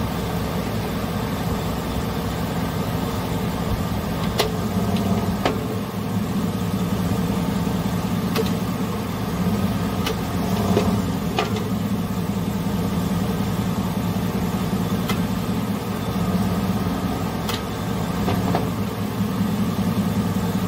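2012 Chevrolet Avalanche's V8 engine idling steadily with the automatic transmission in gear, heard from underneath at the gearbox, with a few faint clicks. The rough grinding noise that the owner traced to a clogged transmission cooler is absent.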